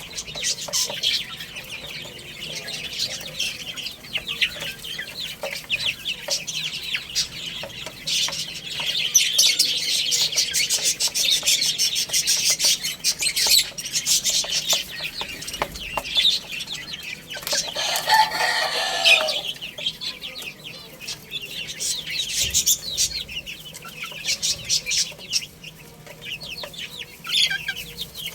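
A flock of baby chicks peeping in rapid, overlapping high chirps, with adult chickens clucking among them. One longer, lower chicken call lasts about a second and a half, about two-thirds of the way through.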